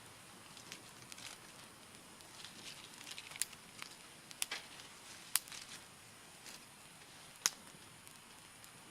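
Small wood fire crackling, with a few sharp pops over a faint steady hiss.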